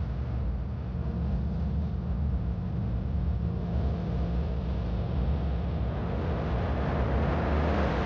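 Steady tyre and road rumble of a Tesla Model 3 driving, with no engine note, the hiss growing a little brighter near the end.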